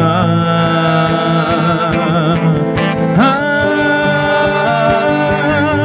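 Male voices sing a long held note with vibrato over acoustic guitar, sliding up to a new held note about three seconds in.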